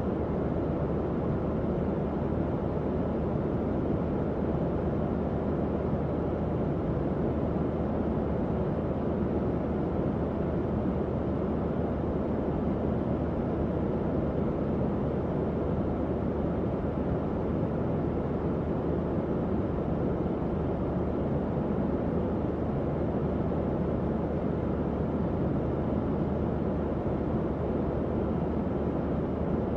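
Tower fan running steadily: an even, low whooshing rush of moving air with no change in speed.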